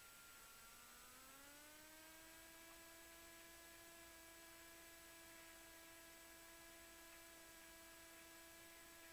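Near silence with a faint electrical whine in the aircraft's intercom audio. It rises in pitch about a second in, holds steady, and falls again near the end, typical of alternator whine following engine speed as the engines are throttled up and back while taxiing.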